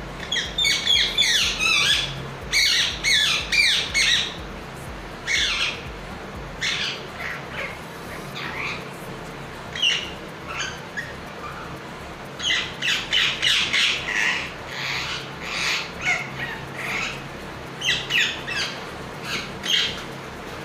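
Pet parrot squawking and chattering in bursts of short, sharp calls, with quieter gaps between the bursts.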